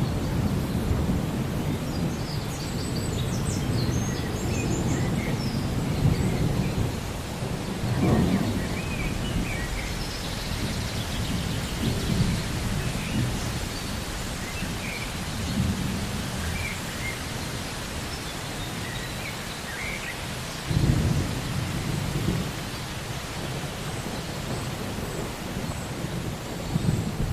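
Thunderstorm: rain falling steadily while low rolls of thunder swell and fade several times, the strongest near the start, about eight seconds in, and about two-thirds of the way through.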